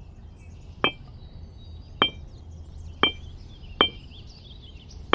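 Hammer blows on metal, four strikes about a second apart, each with a short bright ring.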